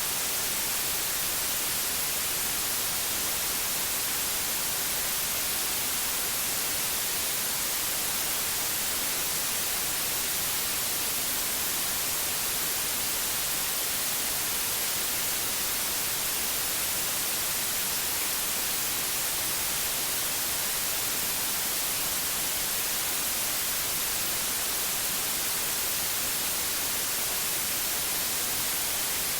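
Steady, unbroken white noise: an even hiss that is brightest in the highs and does not change.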